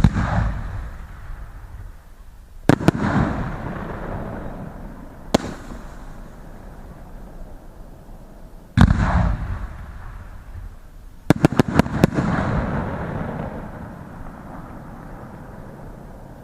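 Fireworks going off: a bang at the start, another about three seconds in, a single sharp crack near five seconds, a heavy bang near nine seconds, then a quick run of four or five cracks around eleven to twelve seconds. Each bang is followed by a fading tail lasting a few seconds.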